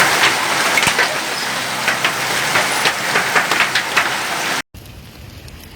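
Heavy rain mixed with hail: a dense steady hiss with frequent sharp clicks of hailstones striking. About four and a half seconds in, it cuts off abruptly to a much quieter, softer hiss.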